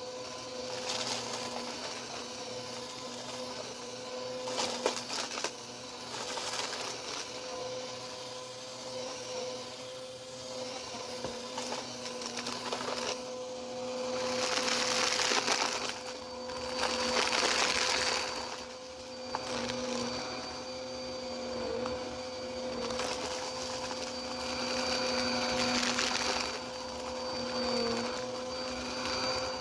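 Vacuum cleaner running with a steady motor whine, crunching and crackling as it sucks up bits of debris. Two louder rushes of suction noise come about halfway through.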